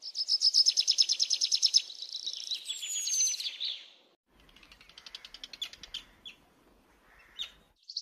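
Birds singing: a loud, rapid trill of high chirps for about the first four seconds, with a short falling whistle over it, then fainter scattered chirps.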